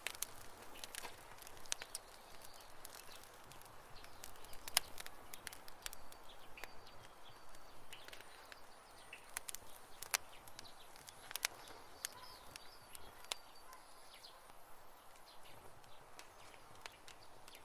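Campfire crackling: irregular sharp pops and snaps from the burning wood over a soft steady hiss, with one louder pop about five seconds in.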